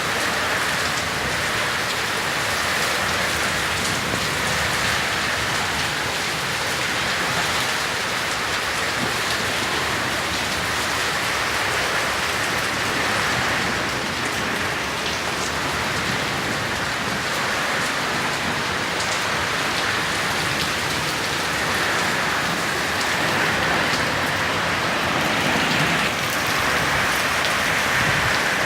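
Heavy rain pouring steadily onto hard surfaces, a dense even hiss.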